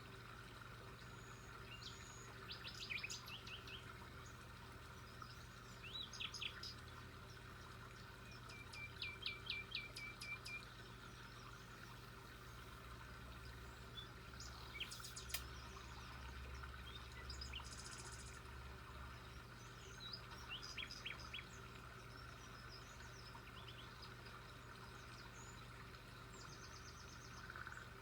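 Wild birds calling in short bursts of quick repeated high notes every few seconds, over a faint steady background hiss.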